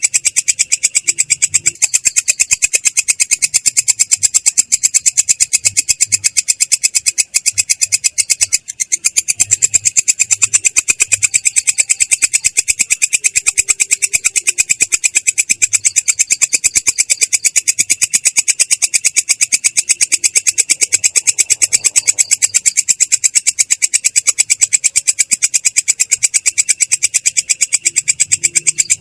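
Belalang kecek katydid singing a continuous rolling trill: a fast, even train of high-pitched, rasping chirps, with a short break a little before the middle.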